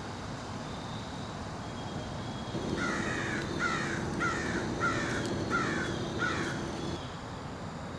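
A bird calling six times in quick succession, the calls about two-thirds of a second apart, starting about three seconds in, with a faint steady hum beneath them.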